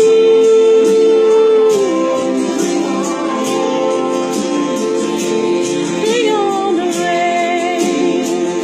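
A woman singing a country ballad over a backing track, holding one long steady note that slides down about two seconds in, then going on with more sung notes, one of them wavering.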